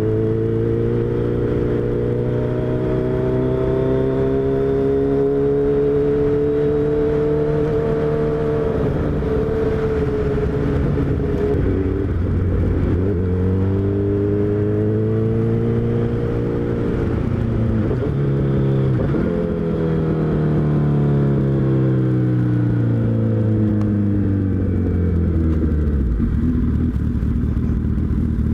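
Suzuki Hayabusa's inline-four engine running under way, its pitch holding and climbing slowly, dropping and rising again twice as the rider changes gear and throttle, then falling steadily as the bike slows and settling low near the end.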